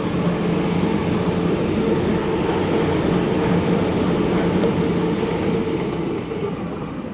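Sydney Trains A set (Waratah double-deck electric train) passing through the station: a steady rumble of wheels on rail with a motor hum, dying away near the end.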